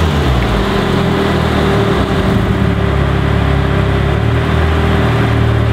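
Mitsubishi Lancer Evolution's engine running at low revs, steady, as the car rolls slowly into a parking spot.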